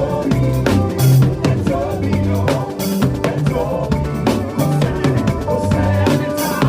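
Upbeat makossa-style praise music: a drum kit plays a busy groove of kick, snare and rimshots over a pitched bass line and keyboard melody.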